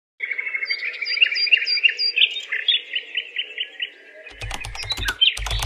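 Birds chirping in quick, evenly repeated notes, about five a second. From about four seconds in, the chirping gives way to a rapid run of sharp clicks over low thumps.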